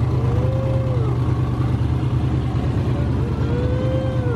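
A performance car engine idling with a heavy, steady low rumble. Twice a higher tone swells up and falls away, each lasting about a second.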